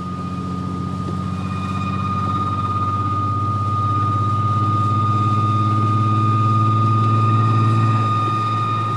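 Mk5 Volkswagen Golf R32 driving with a steady high-pitched squeal over its engine and road drone, which swells about two-thirds of the way in. The squeal seems tied to acceleration; its source is unknown, with the brakes, the all-wheel-drive system or the transmission suspected.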